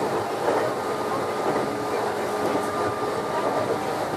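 Meitetsu 6900 series electric train running along the line: a steady rumble of wheels on rail with a few faint, steady tones above it.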